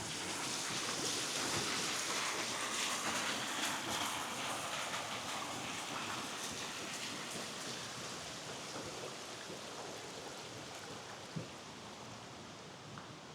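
Rushing stream water: a steady hiss of flowing water that slowly grows fainter, with one sharp tick about eleven seconds in.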